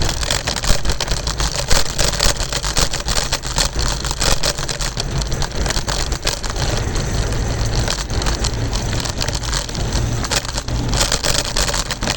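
Kick scooter rolling over rough pavement: a steady rumble of the wheels with a dense clatter of small knocks and rattles.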